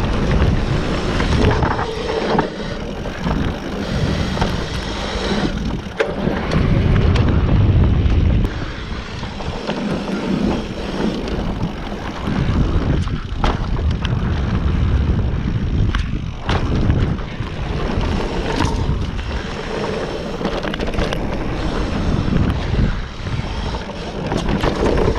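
Wind buffeting the microphone on a mountain bike riding down a trail, a heavy rumble that swells and eases, with scattered knocks and rattles from the bike over bumps.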